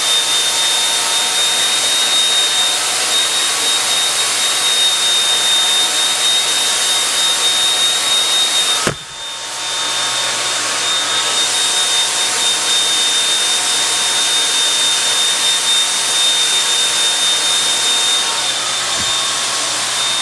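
Hair blow dryer running on medium heat: a loud, steady rush of air with a thin high whine, used to stretch curly hair by blowing it at the roots. The noise dips sharply about nine seconds in and comes back within a second.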